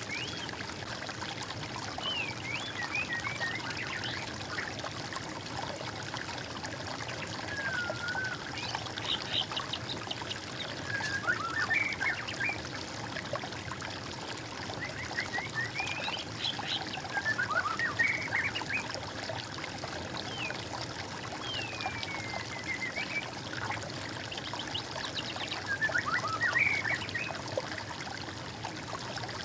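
Songbirds singing in short, repeated whistled phrases, some rising and some falling, over a steady trickle of flowing water.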